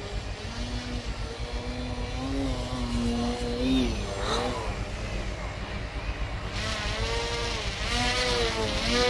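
Brushless electric motor and propeller of a 3D aerobatic model airplane whining in flight, its pitch rising and falling repeatedly as the throttle is worked.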